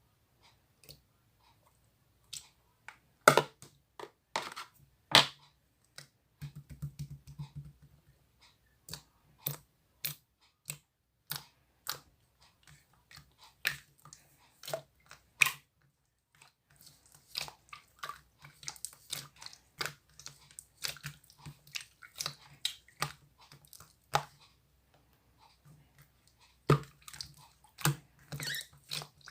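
Clear slime being worked by hand, making irregular sticky clicks and pops. A few sharper snaps stand out about three and five seconds in and again near the end.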